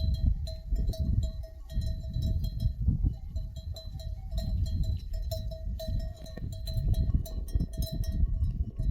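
Bells on a grazing flock of sheep ringing and clinking on and off, over a loud, uneven low rumble.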